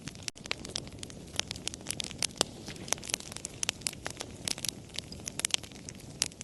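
Wood fire crackling: irregular sharp pops and snaps, several a second, over a low steady rustle of burning, with a split-second break in the sound about a third of a second in.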